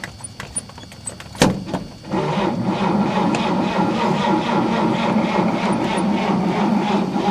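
A 1948 Chevrolet's inline-six being cranked over by its foot-pedal starter. A sharp clunk comes about a second and a half in, then a steady rhythmic cranking at about four beats a second that never catches and runs: the engine is flooded.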